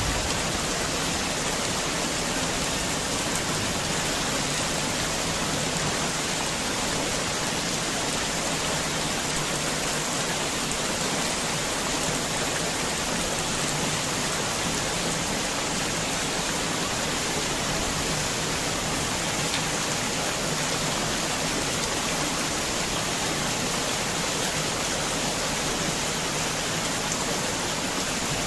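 Heavy rain falling steadily, a dense, even hiss of rain with no let-up.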